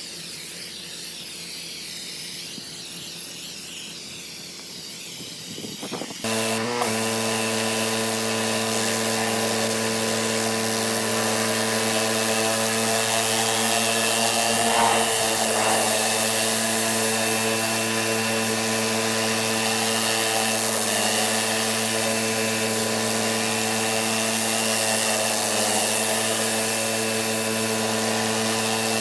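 Pressure washer running: about six seconds in it cuts in suddenly, then holds a steady motor drone with a dense hiss over it to the end.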